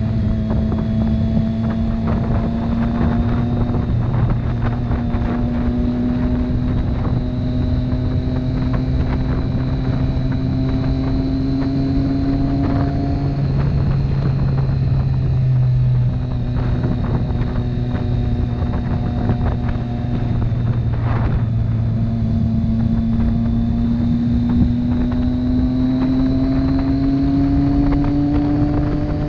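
Motorcycle engine running under way, its pitch climbing slowly as the bike accelerates, dropping about halfway through, then climbing again. Wind noise on the microphone.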